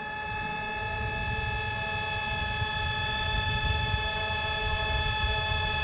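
Small quadcopter drones hovering, their propellers giving a steady multi-tone whine, with wind rumbling on the microphone.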